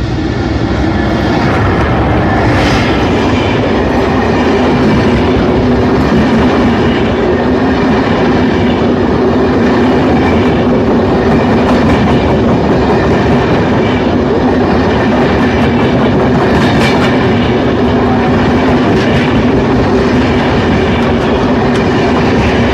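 Express passenger train of Russian-built coaches running through a station at speed without stopping: a loud, steady rush of wheels on rail with a low hum, and a few sharp clacks over the rail joints.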